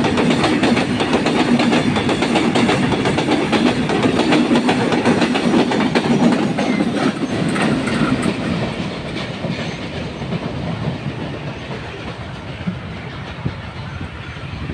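Long freight train's wagons rolling past, wheels clattering rapidly over the rail joints. The noise grows gradually fainter over the second half as the train draws away.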